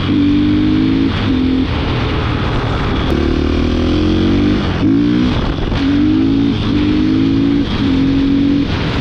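Motorcycle engine being revved hard, its pitch climbing and then dropping sharply about once a second, as when accelerating and shifting or blipping the throttle.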